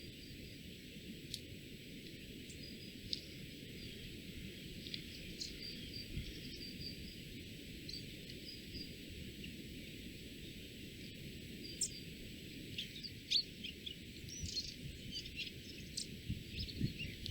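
Woodland ambience: a steady hiss with scattered short, high bird chirps that become more frequent near the end, over a faint steady high-pitched tone.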